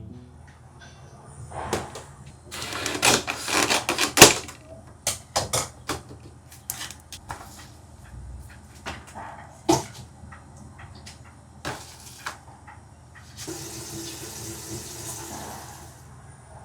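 Kitchen sounds of breakfast preparation: a run of clicks, knocks and rustles, then a steady rushing hiss for about three seconds near the end.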